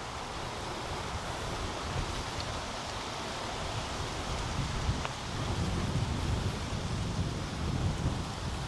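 Outdoor ambience of wind gusting across the microphone: a steady hiss with a low rumble that swells and eases, strongest in the second half.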